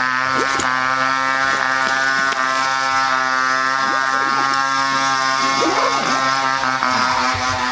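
Two-stroke chainsaw engine revved up and held at a steady high speed, a loud, even buzzing drone.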